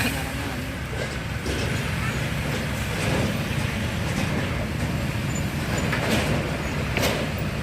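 Road traffic of heavy vehicles: steady low engine rumble from trucks and buses, with two short hisses near the end.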